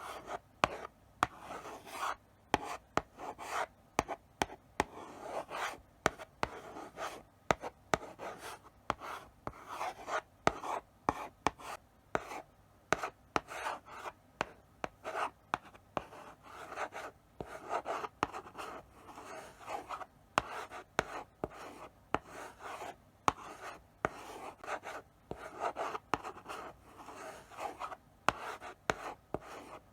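Chalk writing slowly on a blackboard: a run of short scraping strokes with sharp taps as the chalk meets the board, broken by brief pauses.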